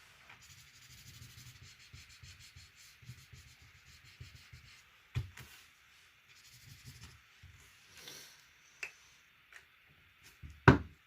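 Repeated short scratchy strokes of colouring on paper. There is a knock about five seconds in and a louder knock near the end.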